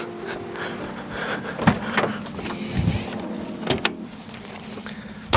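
Car bonnet being opened on a Subaru Impreza wagon: a few sharp latch clicks and knocks, then a louder thump near the end.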